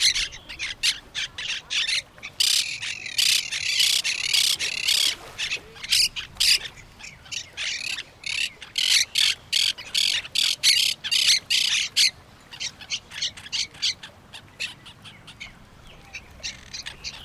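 A flock of parrots squawking and chattering in rapid, harsh calls. The calls come thickest in two dense bursts, one about two seconds in and one near the middle, and are sparser between them.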